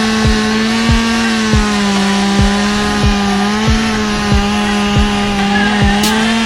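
Chainsaw held at full throttle, its pitch sagging slightly as it works through wood, then the throttle is released at the end and the engine winds down. Music with a steady kick-drum beat plays underneath.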